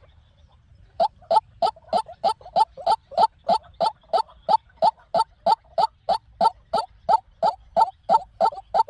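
White-breasted waterhen calling: a fast, even run of repeated notes, about three or four a second. The calling starts about a second in, after a short silence.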